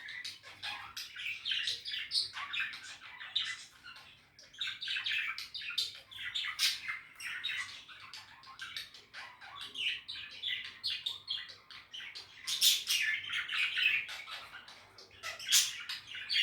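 Budgerigars chattering: a dense, continuous stream of quick chirps and warbling, with sharper louder calls standing out now and then.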